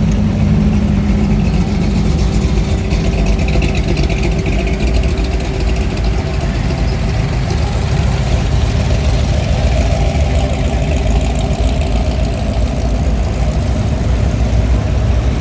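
Hot rod roadster engines idling steadily as a line of the cars rolls slowly past; a deep, continuous engine sound.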